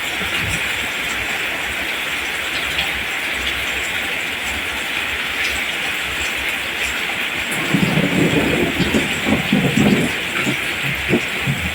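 Steady hiss of heavy rain falling, with a low, rolling rumble of thunder swelling up about two-thirds of the way through and a few fainter low rumbles near the end.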